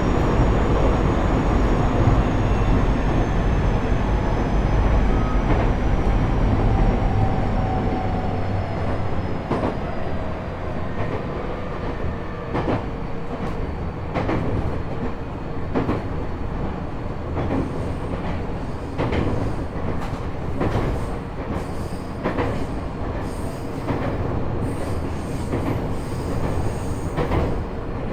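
JR East E127 series motor car with a Toyo Denki GTO-VVVF inverter, heard from inside: the inverter and traction-motor whine glides down in pitch as the train slows. This car is known for a gear whine that carries an extra tone a semitone above the usual one. Running noise eases off, and from about ten seconds in the wheels click over rail joints.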